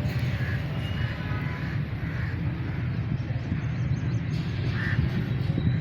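Bird calls, a few short separate calls, over a steady low outdoor rumble.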